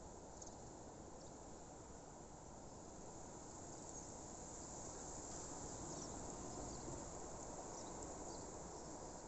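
Crickets chirping in a steady high chorus, with a few faint short chirps on top, over a low steady background hiss.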